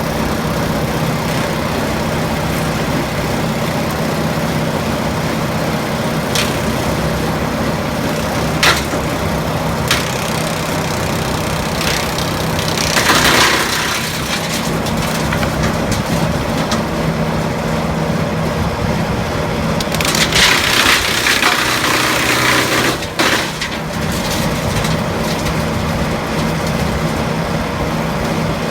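Demarol R10 tractor-mounted branch chipper running steadily on a Leus LS R60 tractor, chipping branches: a few sharp wood cracks, then two longer bursts of shredding, about halfway through and again about two-thirds through.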